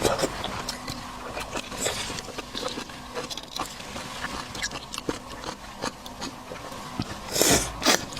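Close-miked eating of seafood: chewing and biting with many short wet clicks and smacks, and a louder, longer noise a little before the end.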